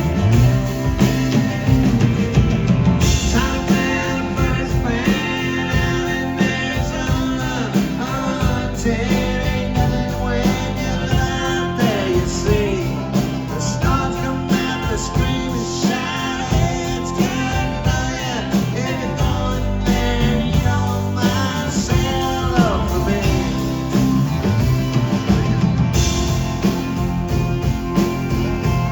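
Live country-rock band playing an instrumental stretch of the song: a lead line with bending, sliding notes over guitars and a steady beat.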